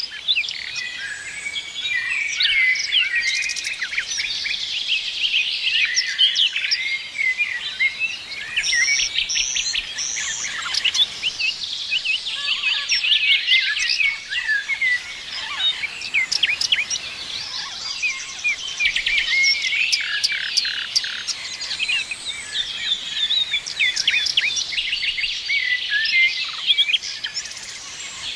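Several songbirds singing and chirping at once, a dense chorus of quick chirps and trills.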